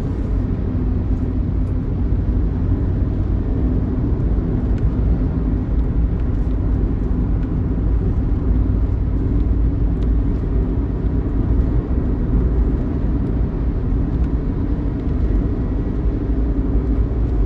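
Steady low rumble of a coach's engine and road noise, heard from inside the bus while it cruises at about 80 km/h.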